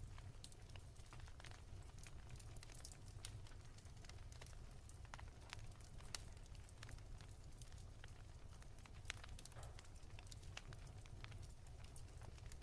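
Wood fire crackling softly: scattered, irregular small pops and snaps from burning logs over a steady low rumble.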